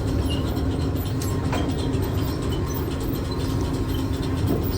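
Steady machinery rumble with a constant low hum, with a few light metallic clicks over it.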